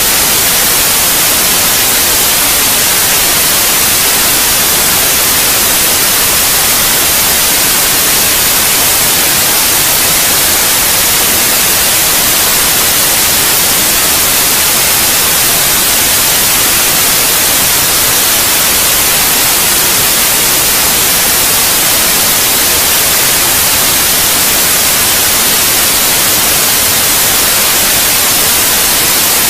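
Steady, loud white noise: an even, unchanging hiss used as a sleep aid for babies.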